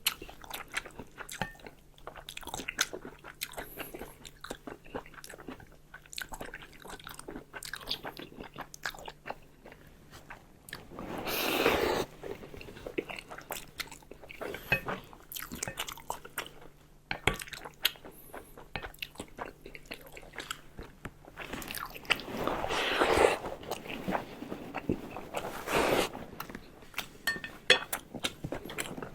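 Close-up mouth sounds of a person eating: chewing and biting food, with many small wet clicks and louder stretches of chewing about eleven seconds in and again from about twenty-two to twenty-six seconds.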